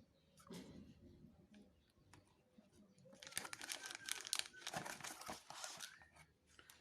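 Faint crinkling and rustling of paper and packaging being handled as items are taken out of a battery box. It is sparse at first and busier for a few seconds in the second half.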